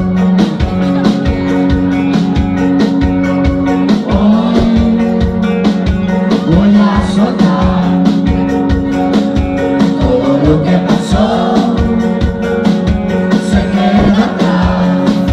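Rock song played by a band: a steady drum beat under held guitar and keyboard-like notes, with a voice singing in phrases.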